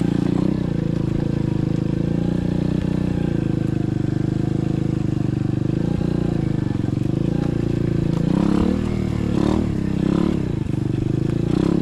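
SSR 125cc dirt bike's single-cylinder four-stroke engine running at low, steady revs while riding slowly. It gives a few quick throttle blips, rising and falling, near the end.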